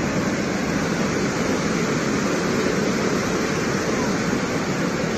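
Overflowing river floodwater rushing past in a steady, unbroken wash of noise.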